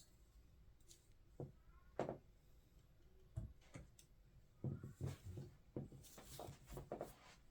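Small scale-model airliner parts being handled and pressed into place: quiet, scattered light clicks and knocks, a few at first, then a busier run of them in the second half.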